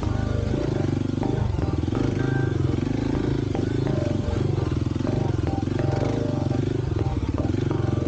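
Kawasaki KLX300's single-cylinder four-stroke engine running steadily, its pitch rising and falling a little with the throttle, with a few short knocks and rattles over it.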